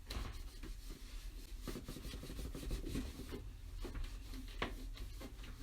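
Faint rubbing and scattered light clicks of handling, over a steady low hum.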